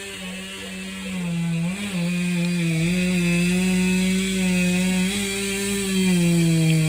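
Chainsaw running steadily at high revs while cutting up a felled oak trunk; the engine note gets louder about a second in and holds, dipping slightly now and then under load.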